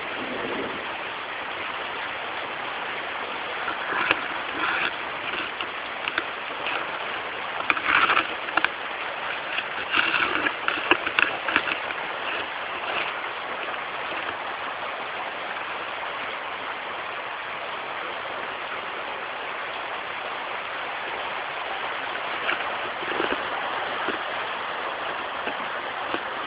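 Heavy rain falling in a steady hiss, with a run of brief louder bursts in the first half.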